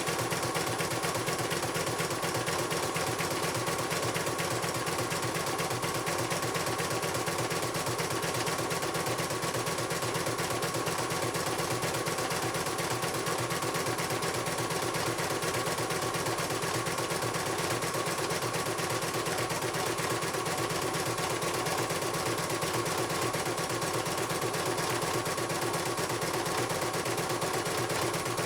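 CNY portable computerized embroidery machine stitching steadily on a test run, a rapid, even clatter of needle strokes with a steady whine.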